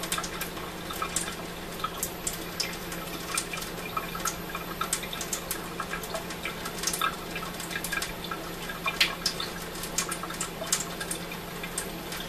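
Water tap left running in a thin stream, trickling and splashing with irregular drips. The tap is kept running to stop the well water pipes from freezing and cracking in below-freezing weather.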